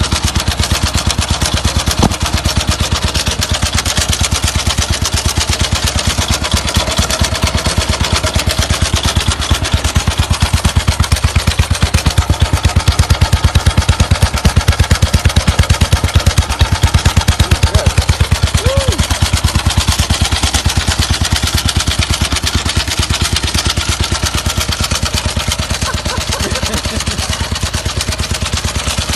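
Old Soviet motorcycle engine running with a rapid, even exhaust beat, growing somewhat louder in the middle and easing back afterwards.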